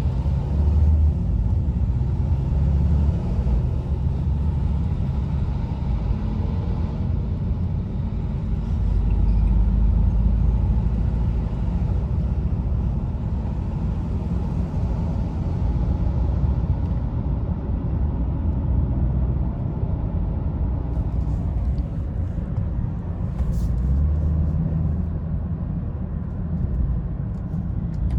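2020 BMW 330i with its 2.0-litre turbocharged four-cylinder, driving along: a steady low rumble of engine and road noise, swelling a little and easing off now and then.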